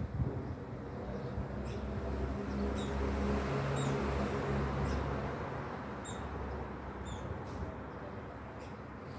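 Scattered short, high bird chirps over a steady low hum, with a rush of noise that swells and fades around the middle.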